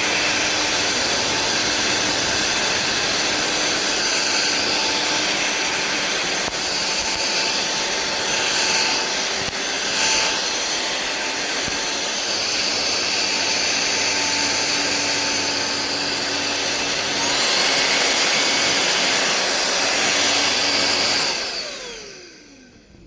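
Sulean X8 cordless stick vacuum running with a steady rush of air and a high motor whine. About 17 seconds in, the whine steps up in pitch as the motor speeds up. Near the end the motor is switched off and whines down to a stop.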